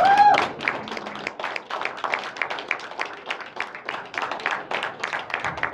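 A small audience applauding with many hands clapping irregularly. A voice holds a short gliding note right at the start.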